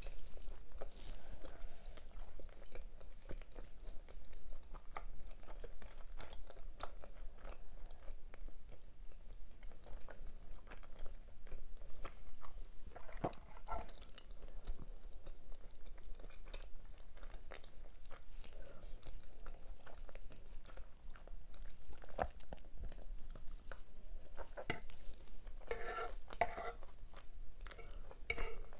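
Close-miked eating: chewing and biting into beef alfredo with bacon and cheese buns, with many small sharp mouth clicks and some crunching.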